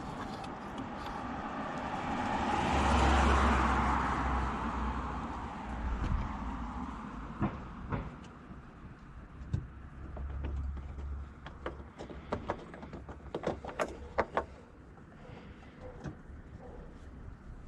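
A vehicle passing by, its noise swelling to a peak about three seconds in and then fading. It is followed by a string of sharp, irregular clicks and knocks.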